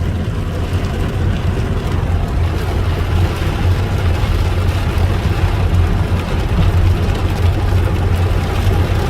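Heavy rain pouring down on the car, a loud steady rush with a low rumble underneath.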